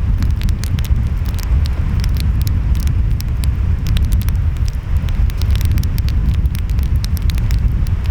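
Wood fire crackling with many quick, sharp pops, over a steady low rumble of ocean waves and wind.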